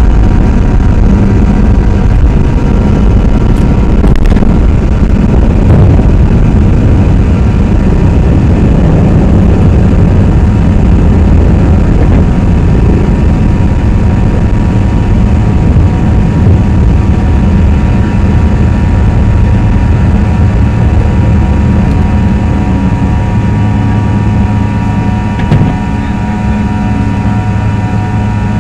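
Cabin noise of a CRJ-200's twin rear-mounted turbofan engines at take-off thrust. It is a loud, steady rumble with several high whining fan tones over it. The noise eases slightly near the end, with one short knock a few seconds before it.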